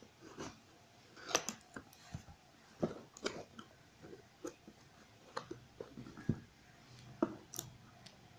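Packaging being opened and handled by hand: irregular crinkles, clicks and taps of plastic and cardboard.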